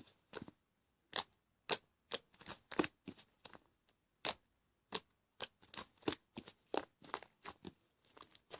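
Fluffy slime being squeezed and poked by hand, giving sharp, irregular clicks and pops about two to three times a second as trapped air bursts.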